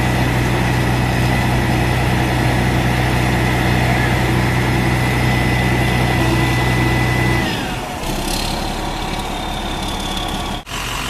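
Fire truck's diesel engine idling steadily with a thin high whine. About seven and a half seconds in, the deep engine note drops away and the whine glides down, leaving quieter running noise.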